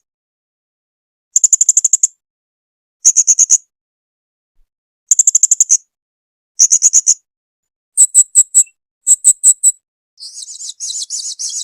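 Blue-crowned hanging parrot (serindit) calling in short bursts of rapid, high-pitched trilled notes, roughly one burst every one and a half to two seconds, with silence between. Near the end the notes turn sharper and higher, then run into a longer buzzy chatter.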